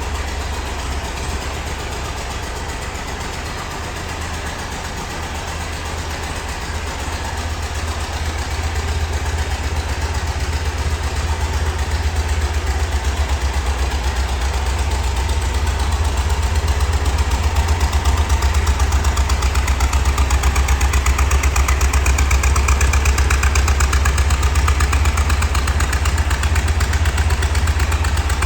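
1977 Volkswagen Westfalia's air-cooled flat-four engine idling steadily after a cold start, with an even low pulsing exhaust note. It grows louder over the first half, then holds steady.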